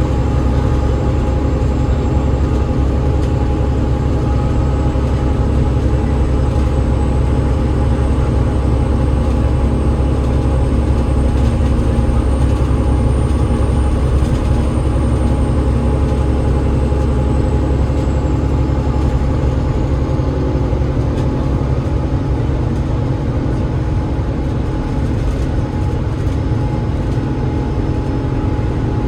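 Alexander Dennis Enviro500 MMC double-decker bus with a Cummins ISL8.9 diesel and ZF EcoLife automatic gearbox, heard from on board while running at a steady pace. A steady low drivetrain drone carries constant whining tones, and a faint high whine rises slightly, then fades out about two-thirds of the way through.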